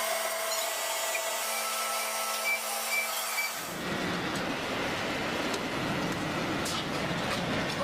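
Steady factory machinery noise from a metal-pipe workshop, with a faint steady hum and whine in the first half. About three and a half seconds in, the sound changes abruptly to a fuller, even machine noise.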